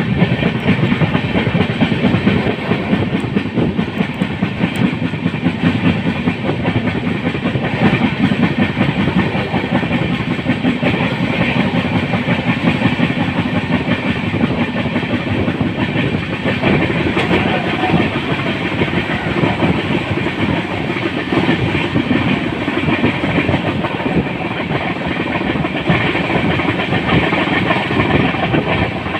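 Konkan Railway Jan Shatabdi Express train running on the track: a steady rumble and rattle of the moving train with the clatter of its wheels.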